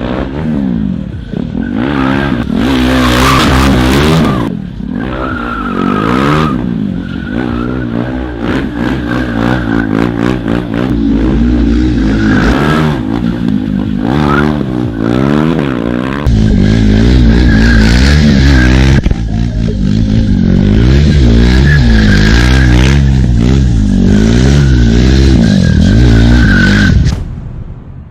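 KTM streetbike engine revving hard, its pitch rising and falling over and over, with the rear tyre squealing as the bike drifts. The sound jumps abruptly several times from one ride to the next.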